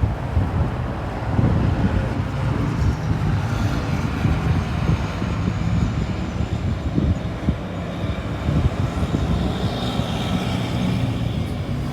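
Fire engine's engine running as the truck drives in, a steady low rumble, with a high whine that slides down in pitch near the end.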